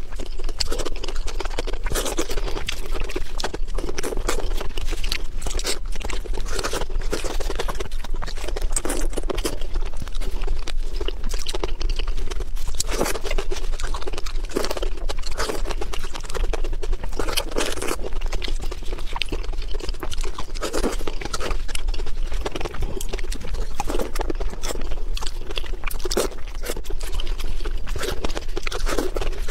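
A person chewing raw marinated shrimp close to the microphone: wet mouth noises with many small, irregular clicks throughout.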